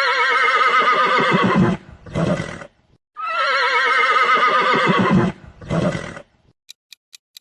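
A horse whinnying twice: each neigh is a long, quavering call followed by a shorter burst. Near the end, a countdown clock starts ticking at about five ticks a second.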